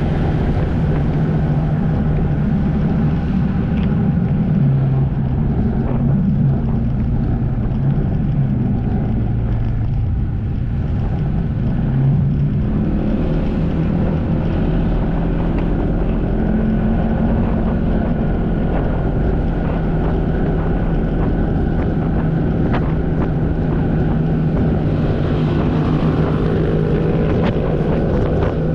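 Jet ski engine running under way, its note shifting in the first half and then holding steady, with wind buffeting the microphone.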